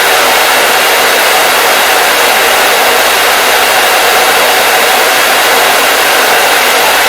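Hair dryer running steadily: an even, loud rushing hiss of its fan and airflow, with a faint steady hum underneath.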